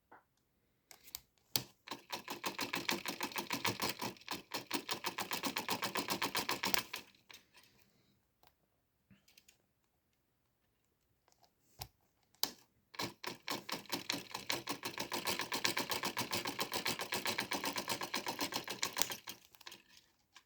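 Homemade electric motor running in two spells of several seconds, each a fast, even run of clicks that starts with a few single clicks, builds up and then dies away.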